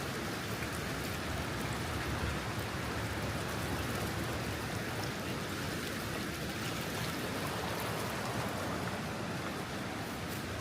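Steady rushing of water with an even hiss, with no change in level, and a few faint high ticks like raindrops.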